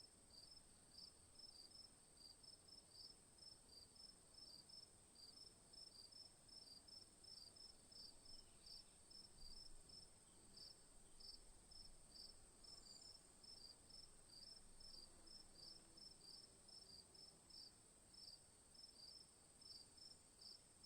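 Faint insect chorus: a steady high-pitched trill with quick, evenly repeated chirps over it.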